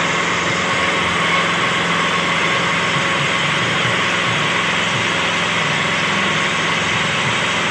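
Small engine of a homemade well-drilling rig running steadily under even load.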